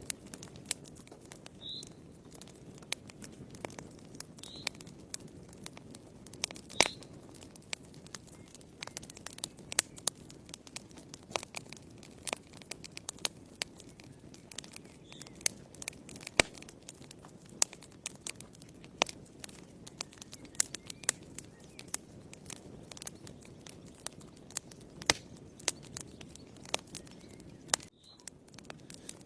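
Wood fire burning in a fireplace: irregular sharp crackles and pops over a low, steady rush of flame. A few short high squeaks come from the burning wood now and then.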